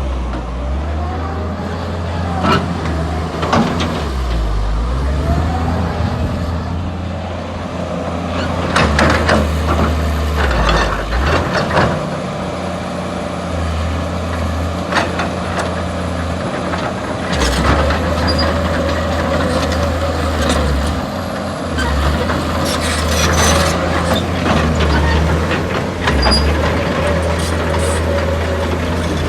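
Excavator's diesel engine running steadily under load, with repeated sudden hisses and knocks from the working machine every few seconds.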